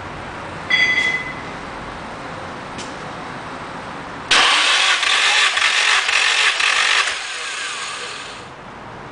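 Nissan SR20DET four-cylinder turbo engine being cranked on the starter during a compression test. It turns over for about three seconds and does not start, then fades off. A short high beep comes about a second in.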